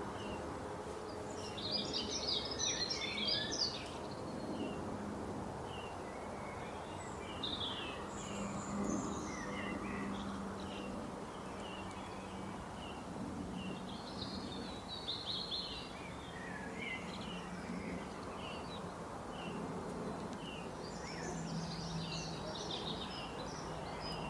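Birds chirping: short repeated chirps throughout, with three bursts of busy chattering near the start, in the middle and near the end, over a steady background hiss.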